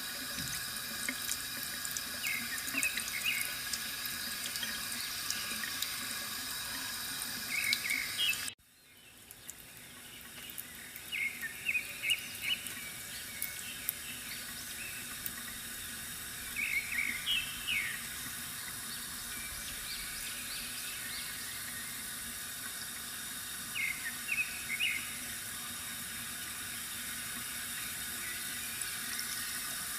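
Steady running, trickling water from a bamboo water fountain, with short bird chirps every few seconds. About eight seconds in the sound cuts out abruptly and fades back in over a couple of seconds.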